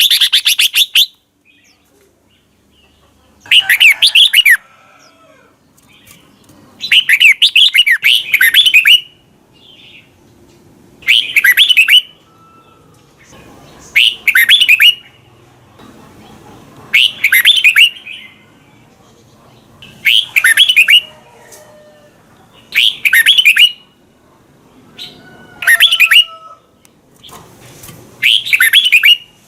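Red-whiskered bulbul singing its doubled ('beun') song: short phrases of quick, bubbly whistled notes, each lasting about a second and repeated about every three seconds.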